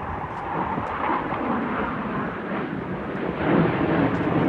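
Jet aircraft engine roar during an air show pass: a deep, rushing noise that builds steadily louder, rising sharply about three and a half seconds in as the jet closes in.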